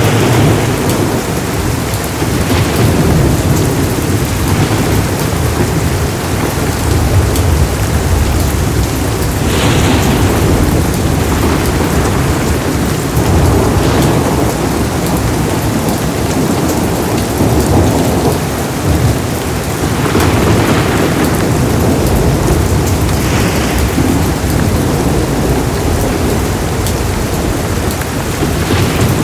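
Heavy rain falling steadily with rolling thunder, a low rumble that runs throughout and swells several times.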